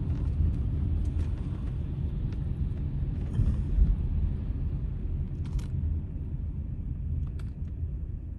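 Steady low rumble of a car heard from inside the cabin, engine and road noise, with a brief faint tick about five and a half seconds in.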